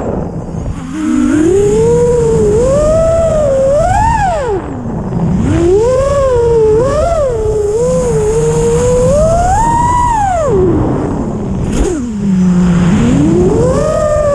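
Hyperlite 2408.5 brushless motors of a 6-inch FPV racing quadcopter whining in flight. The pitch climbs and falls with the throttle, dropping low when the throttle is cut about a second in, around five seconds in and again near the end. A steady low rushing noise runs underneath.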